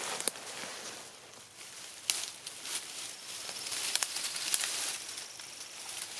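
Rustling and crackling in forest leaf litter, broken by a few sharp snaps or clicks.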